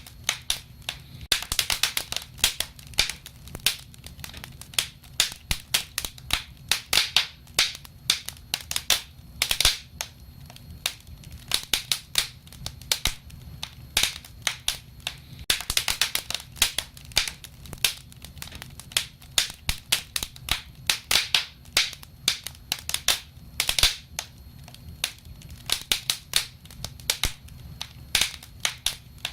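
Wood fire crackling: irregular sharp pops and snaps, several a second, over a low steady rumble of the burning.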